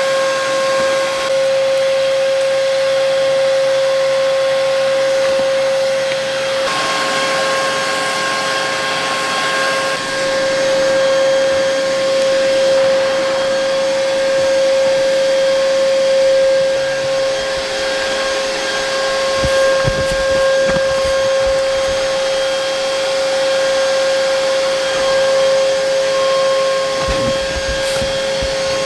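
Portable generator running steadily, a constant motor hum with a steady whine over a hiss. A few brief low thumps come near the end.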